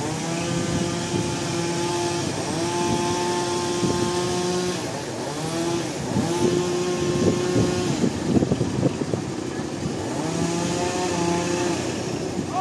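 Engine-driven sawmill machinery running, its steady pitch dipping and recovering several times as if under changing load, with a stretch of rough, crackling noise about six to nine seconds in.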